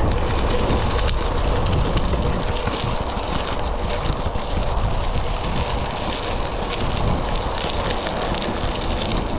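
Wind buffeting the microphone over e-bike tyres rolling along a gravel track at riding speed. It is a steady rumbling hiss with faint scattered crackle.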